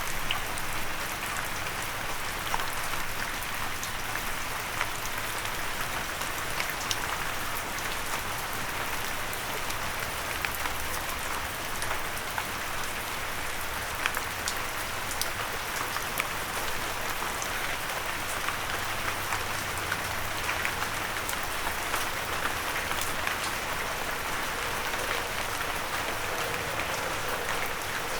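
Steady rain with many individual drops ticking sharply on a hard windowsill.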